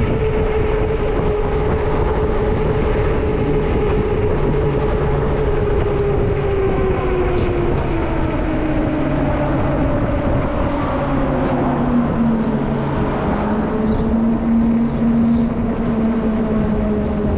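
An electric drive motor whines under a steady rumble of rolling and wind noise. Its pitch slides steadily down as the vehicle slows over several seconds, then holds at a lower steady note.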